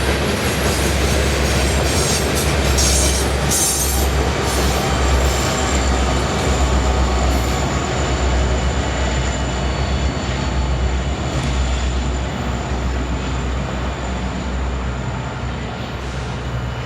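A freight train passing at track side: a steady rumble of wheels on rail with a thin, high wheel squeal running through it, easing off slightly near the end.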